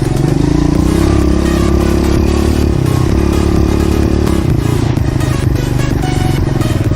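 Pit bike engine running as the bike is ridden over rough ground. The engine note shifts about a second in and drops lower about four and a half seconds in.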